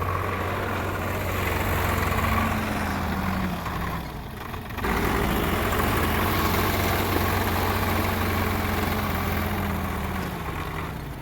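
Heavy diesel engine of a working loader or tractor running steadily, with a low hum that drops briefly about four seconds in and picks up again.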